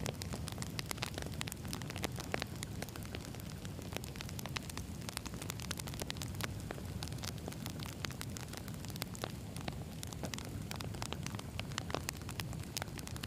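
Wood campfire burning: firewood crackling and popping in many short sharp snaps over a steady low rush of the flames.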